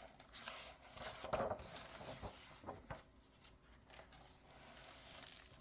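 Faint handling noise from a picture book: a few soft rustles of paper and cover with light knocks, the loudest about a second and a half in.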